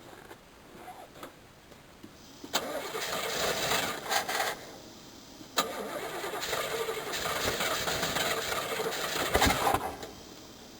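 Cold 1985 Chevrolet Caprice's carbureted 305 cubic-inch V8 being cranked by the starter twice, a short try and then a longer one, with the malfunctioning choke plate jammed open. The longer crank ends with a sharp pop, a backfire through the carburetor.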